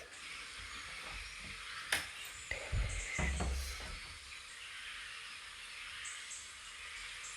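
Outdoor nature ambience: a steady high hiss with a few faint bird chirps, a sharp click about two seconds in, and a short low rumble around three seconds in.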